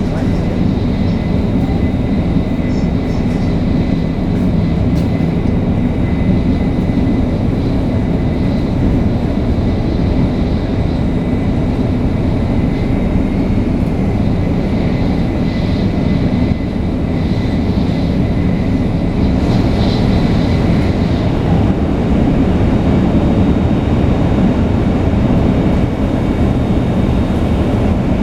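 500 series Shinkansen train (Toshiba GTO-VVVF traction) running at cruising speed: a steady, loud rumble of wheels and running gear, with a faint steady high tone underneath.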